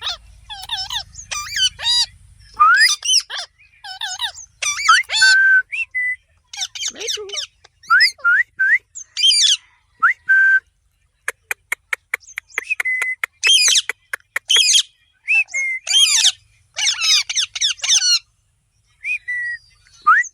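Pet parrot chirping, whistling and squawking in quick bursts of short gliding calls, with a rapid run of clicks about halfway through.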